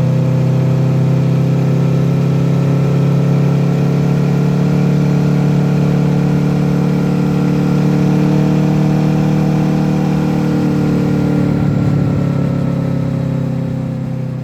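Honda VFR800F V4 VTEC engine through an SC-Project exhaust, running at fairly steady mid revs while riding. The pitch holds nearly level, rises a little in the middle and eases off over the last few seconds as the throttle is rolled back.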